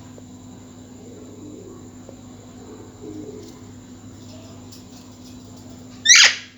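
Pet parrot calling: a few soft, low sounds, then one short, loud squawk near the end.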